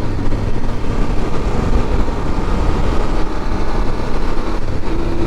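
Motorcycle under way on the road: a steady, loud rush of wind and road noise on the onboard microphone with the engine running beneath it, its steady note coming through more clearly near the end.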